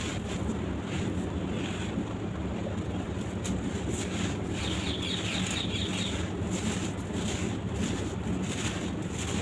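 Dry sand-cement crumbling into water: a steady wet rushing with scattered small crackles, which grow brighter and more fizzing about halfway through.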